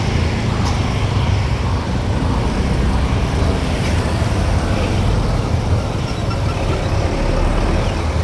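Steady low rumble of a motor vehicle running, with no clear breaks or changes.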